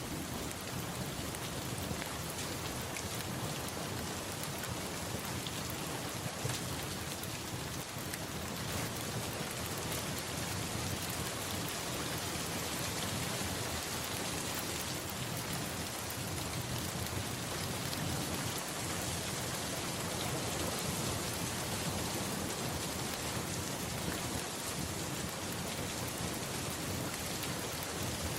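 Steady rain falling, an even hiss of many small drops, with a low rumble underneath.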